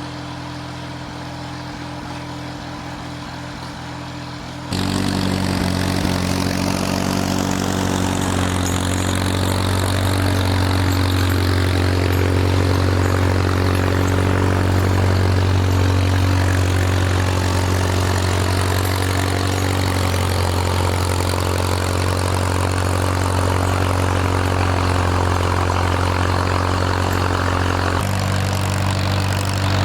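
Farmall tractor engine running steadily. About five seconds in it jumps suddenly louder and fuller, then drops back to the quieter running near the end.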